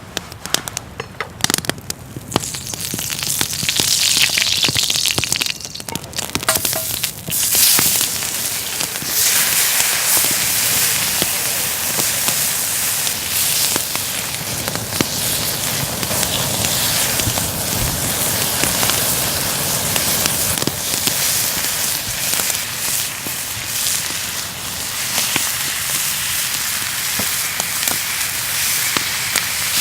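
Pork spare ribs sizzling in hot oil over a wood fire: a dense crackling hiss that swells about eight seconds in and then holds steady.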